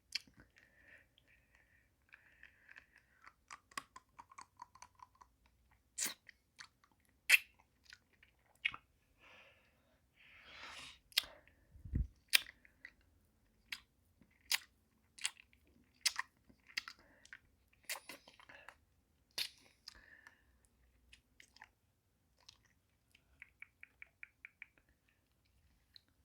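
Close-up mouth sounds of eating a pacifier-shaped hard-candy lollipop: scattered wet smacks and sharp clicks, a longer wet sucking sound about ten seconds in, and a quick run of small clicks near the end.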